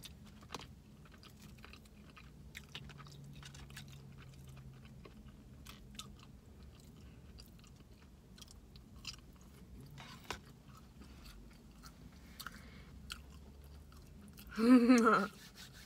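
A person quietly chewing fast food, with many small wet mouth clicks and smacks. Near the end there is a brief, loud, pitched vocal sound, like a hum.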